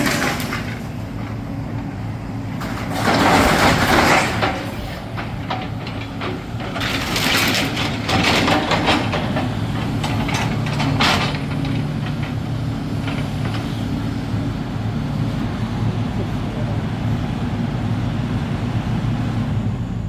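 Demolition excavator's diesel engine running steadily, with loud bursts of crunching and clattering rubble as it breaks up part of a building, about three seconds in and again around seven to nine seconds. The engine shuts off right at the end.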